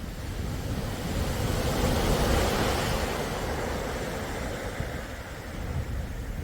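Sea waves: one wave washes in, swelling to a peak about two seconds in and then slowly fading, over a steady low rumble.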